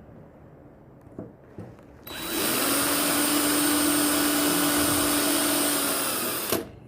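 Handheld electric drill running at a steady speed for about four seconds, starting about two seconds in and cutting off sharply.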